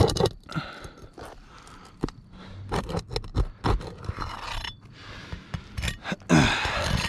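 Tool scraping and knocking under asphalt shingles while working a roofing nail loose: a run of short clicks and scrapes, with a longer, louder scrape near the end.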